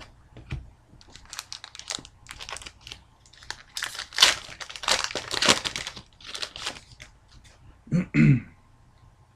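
Foil wrapper of an Upper Deck hockey card pack being torn open and crinkled by hand, a dense run of crackling, loudest in the middle.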